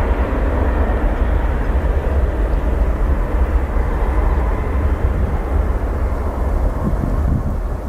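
Jet airliner engines running, a loud steady rush over a deep rumble, the higher hiss gradually dulling as the aircraft moves away.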